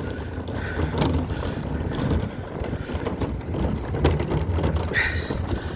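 Blizzard wind gusting hard and buffeting the microphone, a deep unsteady rumble that rises and falls with the gusts.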